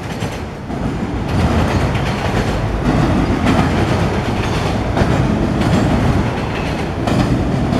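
Freight train of autorack cars rolling past: a steady rumble of steel wheels on the rails, with occasional clicks as the wheels pass rail joints.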